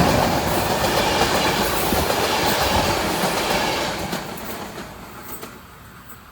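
A train passing on the rails, its wheels rolling over the track, loud at first and then fading away as it recedes over the last two seconds.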